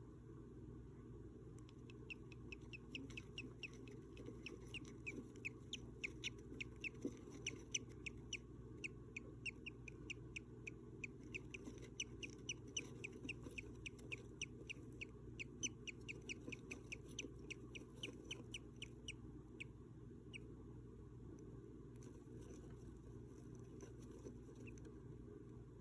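Budgerigar chicks cheeping: a rapid run of short, high peeps, several a second, that stops about twenty seconds in and starts again near the end, faint over a steady low hum.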